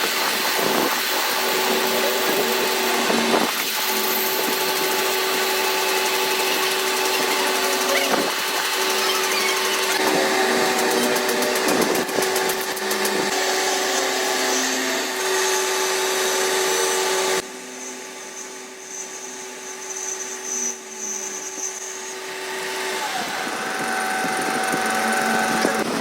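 A power tool running steadily with a constant whine, working metal during a crankshaft pulley repair. About two-thirds of the way through it cuts off suddenly, leaving a quieter high-pitched whine before the level builds again near the end.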